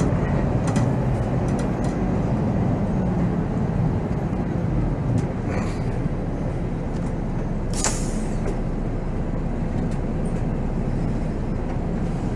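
Volvo B7R coach's diesel engine and road noise on the move, a steady rumble. A brief hiss of air from the bus's air brakes comes about eight seconds in, with a fainter one shortly before.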